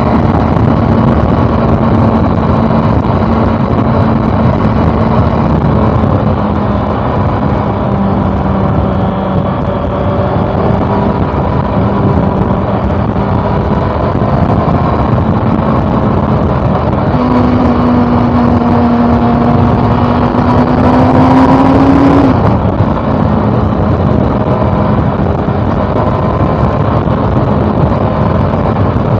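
A 2013 Honda CB400 Super Four's inline-four engine running steadily under way. About two-thirds through, its note steps up and climbs under acceleration for several seconds, then drops abruptly back to a steady cruise.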